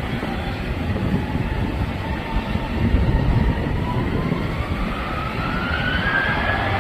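Jet airliner engines during takeoff: a heavy, steady rumble with a whine that rises steadily in pitch as the engines spool up.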